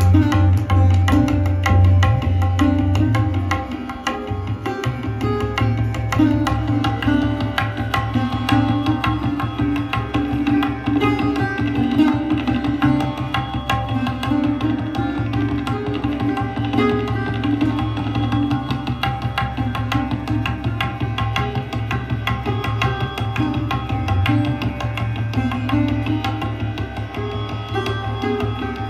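Sarod played in a fast passage of rapid plucked strokes, with tabla accompaniment.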